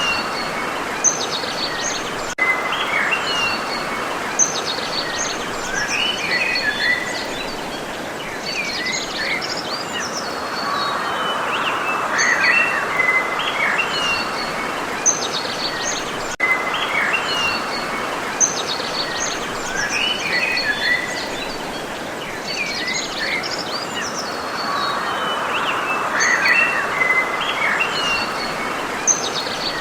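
Several small birds chirping and calling over a steady background rush of environmental noise; the same stretch of chirps and faint clicks appears to repeat about every 14 seconds.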